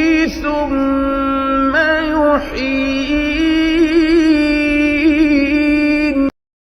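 Melodic Quran recitation: a single voice holds long, ornamented notes with trills and wavering pitch, in a few drawn-out phrases. It cuts off abruptly near the end.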